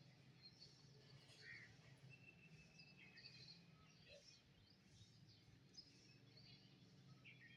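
Faint birdsong: several birds giving short chirps and calls, with one thin held note in the middle, over a steady low hum.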